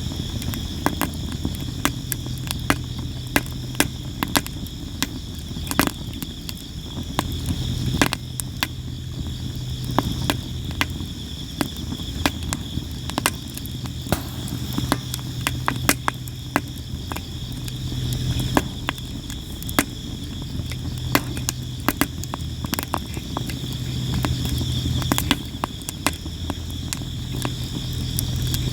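Sawara (Japanese cypress) wood fire crackling and popping with frequent sharp snaps, over steady chirping of crickets and a low wavering hum.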